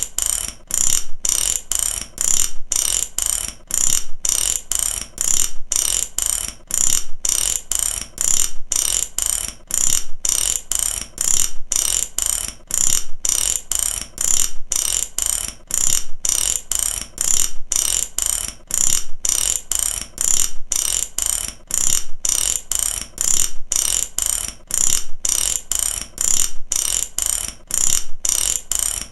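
Mechanical ratchet clicking, its pawl snapping over the toothed wheel in short runs broken by brief gaps, a little under two runs a second, in an even, unbroken rhythm.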